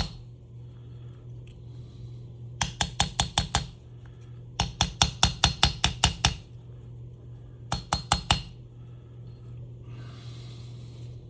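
Light, sharp metal-on-metal taps in three quick runs, about six or seven a second, the first a couple of seconds in and the last near the end: a bearing being tapped to seat it deeper in a tape-recorder spooling motor's housing.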